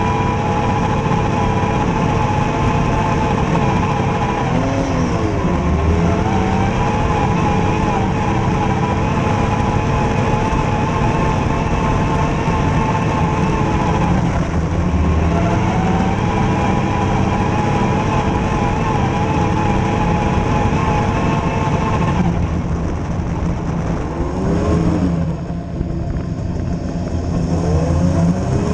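A vehicle's engine running steadily under load at a fairly high pitch. Its revs briefly drop and climb again a few times, more often near the end.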